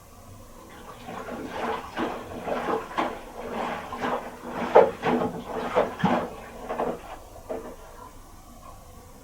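Miele Little Giant PWM 507 commercial washing machine turning its drum while the woollens load soaks up water: irregular thumps and swishes of wet laundry and water tumbling. The drum stops about seven or eight seconds in.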